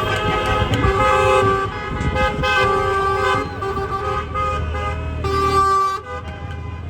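Car horns honking repeatedly in overlapping long and short toots over street traffic. The honking drops away about six seconds in.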